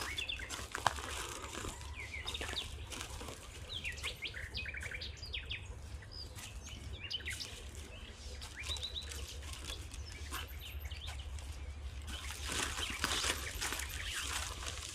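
Small forest birds chirping and calling in quick, short notes, with a louder burst of rustling noise near the end.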